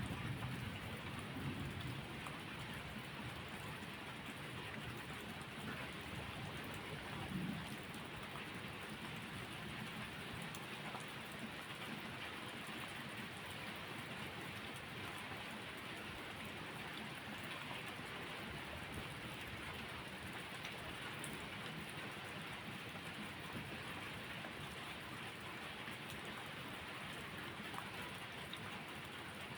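Steady rain falling and pattering on surfaces, an even hiss throughout. A low rumble sits under it for the first several seconds, swelling once about seven seconds in before it fades.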